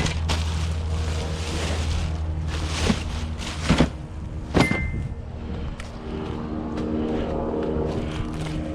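A vehicle engine running steadily at idle, with a few sharp knocks and clatters from about three to five seconds in.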